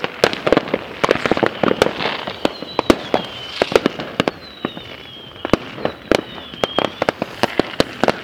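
Fireworks going off: a dense, irregular run of sharp pops and bangs, with thin high whistles gliding down from about two and a half to seven seconds in.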